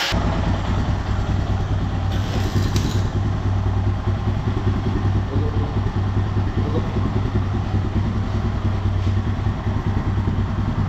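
Royal Enfield Himalayan's air-cooled single-cylinder engine idling steadily, with a quick regular pulse. A brief light metallic click comes about two and a half seconds in.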